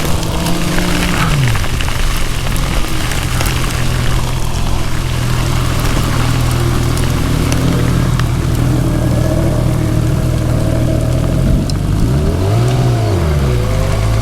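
Suzuki GSX-R750 inline-four engine running under way. The revs drop about a second in, hold steady, then rise and fall once near the end, over a steady hiss of wind and heavy rain.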